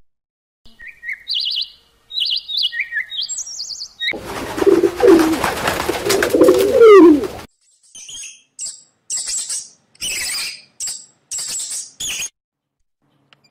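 Birds calling in three short bursts. First come quick high chirping notes. Then comes a noisy stretch with low gliding calls, and last a string of short, scratchy high calls.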